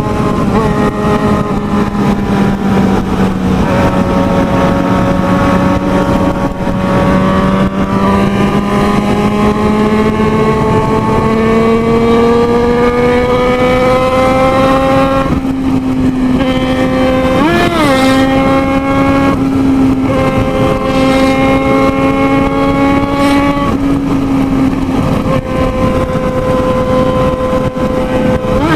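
Motorcycle engine running hard at high road speed, its note climbing slowly and steadily as the bike accelerates. About two-thirds of the way through, a brief quick rise and fall in pitch breaks in, and the note shifts a few times near the end.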